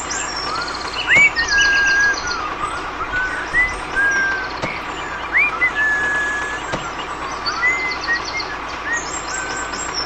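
Birds chirping: many short whistled notes, some sweeping up and down and some held on one pitch, with bursts of rapid high trilling over a steady background hiss.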